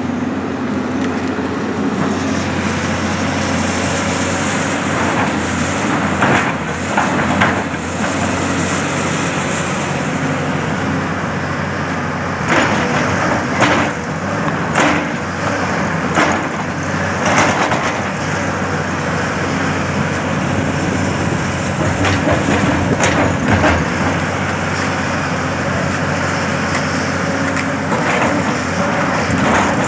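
Diesel engine of a heavy earthmoving machine running steadily, with repeated clanks and scrapes of metal on earth and stone, in clusters about a third of the way in, through the middle and near the end.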